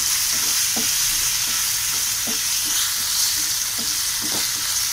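Paneer cubes shallow-frying in a little hot oil in a nonstick pan on full flame: a steady sizzle, with light scattered taps as the cubes are turned over.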